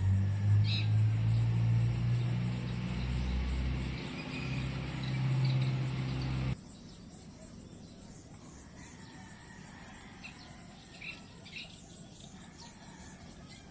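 Nature ambience of crickets trilling steadily, with a few short bird chirps. A low droning hum sits underneath for the first half and cuts off suddenly about halfway through.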